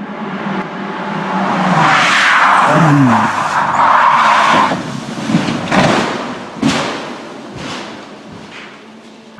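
A car's engine running under loud tyre noise as it skids, with the engine note falling about three seconds in, then a few sharp impact knocks around six to seven seconds in as the noise dies away.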